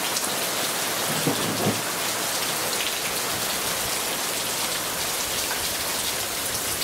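Steady rain pouring down, an even hiss with no let-up.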